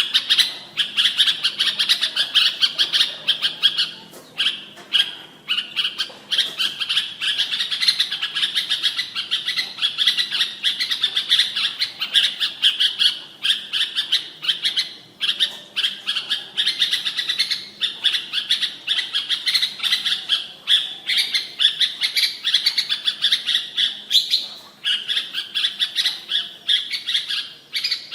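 Red-whiskered bulbul song: rapid, continuous high chirping and warbling phrases, with a few brief pauses.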